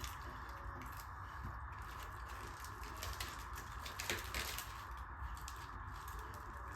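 Close-miked eating sounds of tandoori butter roti and dal fry being chewed: scattered small wet mouth clicks and smacks, a brief cluster about four seconds in, over a steady hiss.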